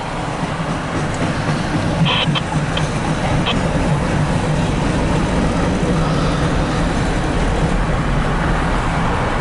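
Empty cars of a freight trash train rolling past on the rails: a steady rumble of wheels on track, with a few sharp clicks about two and three and a half seconds in.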